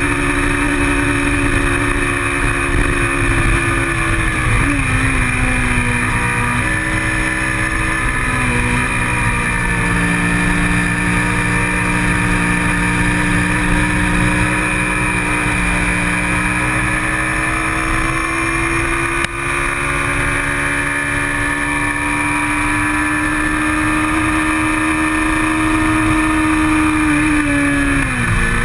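Kawasaki Ninja 650R's parallel-twin engine at racing revs, heard from an on-bike camera. Its note drops in steps about five seconds in, climbs slowly and steadily through the long middle stretch, then falls sharply near the end. Wind rumbles on the microphone underneath.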